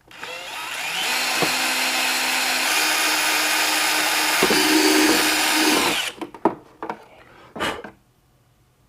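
Power drill spinning up and boring a pilot hole with a small bit into the painted trunk panel, running steadily for about six seconds with a change in pitch partway through, then stopping. A few light knocks follow.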